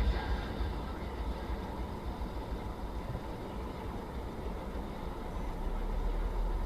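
Steady low rumble of a vehicle driving, engine and road noise with no impacts, as heard from a dash camera.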